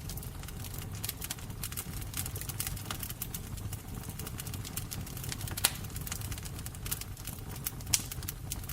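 Fire burning with a steady low rumble and irregular crackling of burning wood, with two louder pops, one past the middle and one near the end.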